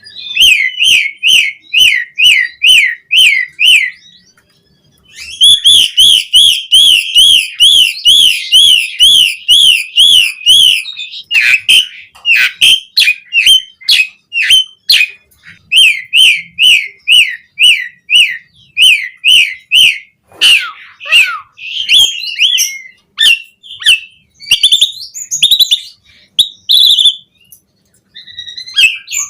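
Pied starling (jalak suren) singing: long, fast runs of the same chirping note repeated several times a second, broken by a short pause about four seconds in, then more varied whistled and chattering phrases.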